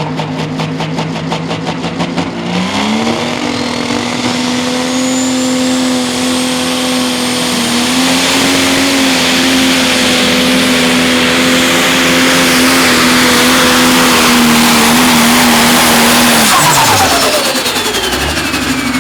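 Pro Stock pulling tractor's turbocharged diesel engine revving up about three seconds in and held at full RPM through the pull, then shut down near the end, the engine note and a high whine both falling away.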